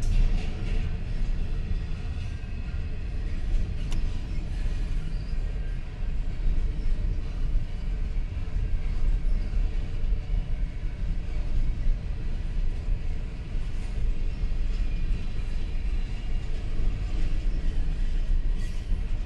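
Double-stack intermodal freight train of container-loaded well cars rolling through a level crossing: a steady low rumble of wheels on rail that goes on without a break.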